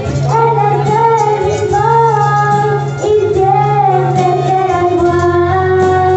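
Worship song: a voice singing a sustained melody in Spanish over a steady instrumental accompaniment.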